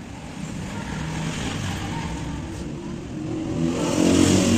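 A motor vehicle engine revving, growing louder and rising a little in pitch from about three and a half seconds in.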